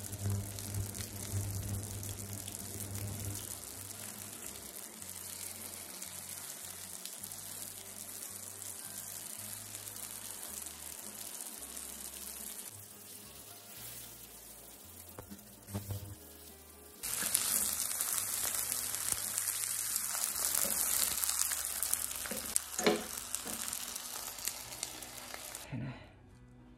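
Rice-paper rolls filled with cabbage, tofu and vegetables frying in oil in a nonstick pan: a steady sizzle that suddenly gets louder about two-thirds of the way in. A few sharp clicks of chopsticks or spatula against the pan, and the sizzle stops near the end.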